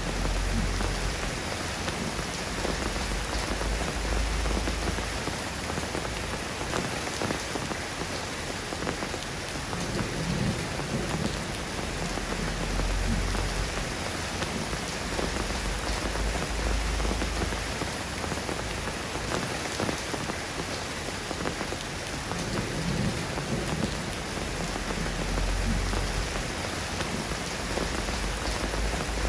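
Steady rain falling, an even hiss of drops on surfaces, with low rumbles that swell and fade every several seconds.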